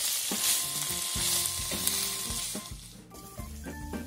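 Pork and garlic scapes sizzling in a hot wok as they are stirred with a spatula over high heat, the sauce cooking down; the sizzle drops away about three seconds in. Light background music plays underneath.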